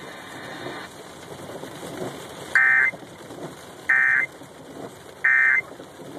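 NOAA weather radio sounding three short, identical electronic data bursts about 1.3 s apart: the SAME end-of-message tones that close a severe thunderstorm warning broadcast. Underneath is a steady hiss of rain.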